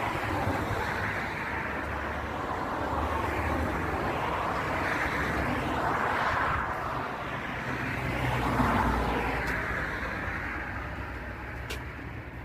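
Motorway traffic: cars passing one after another, each swelling and fading over a steady low rumble of tyres and engines.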